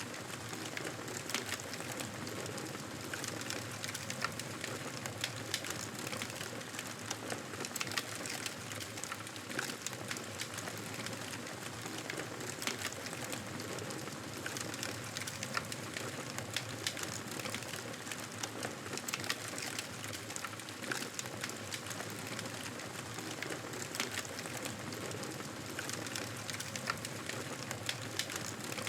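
Wood fire crackling, with many small irregular pops and snaps over a steady hiss.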